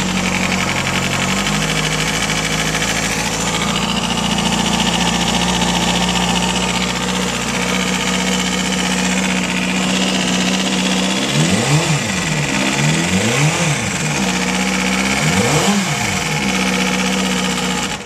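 Kawasaki ZX6's inline-four engine idling steadily, then revved three times a little past halfway, each rev rising and falling back to idle. The owner suspects the weird noise in it is something with the valves.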